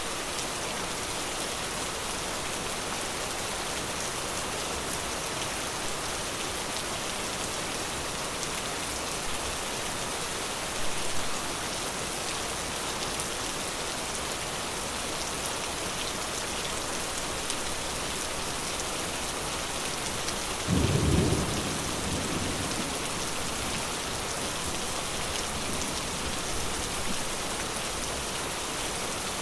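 Steady rain falling, with a short low roll of thunder about two-thirds of the way through and a fainter bump earlier on.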